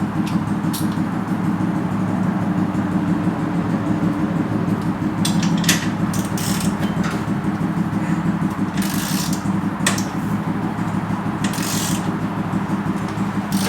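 SSR 150 dirt bike's single-cylinder four-stroke engine idling steadily, with sharp clicks and knocks of something being handled several times in the second half.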